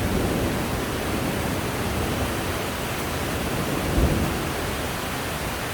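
Heavy rain pouring down, a steady even hiss, with a brief low bump about four seconds in.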